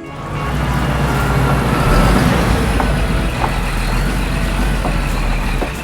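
A heavy vehicle's engine running steadily with a low rumble, a construction-truck sound effect.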